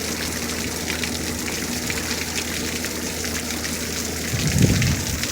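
Heavy rain pouring down steadily, with a brief low rumble about four and a half seconds in.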